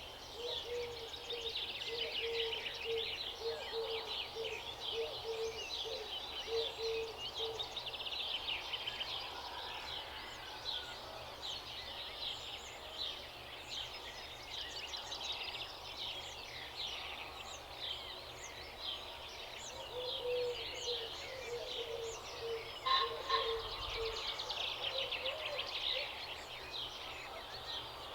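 A dense chorus of many small songbirds chirping and trilling without pause. Through it, a lower note repeats steadily in two spells, one at the start and one in the last third.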